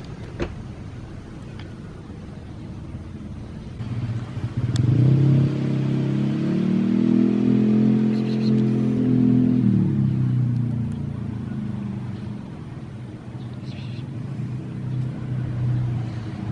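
A motor vehicle passing on the street, its engine sound swelling over a few seconds and then fading away. A few faint clicks are heard now and then.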